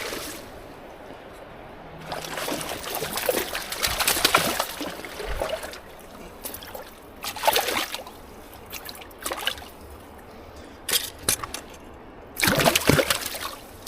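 Water splashing and sloshing in irregular bursts as a hooked fish thrashes at the surface while being reeled in on a lure.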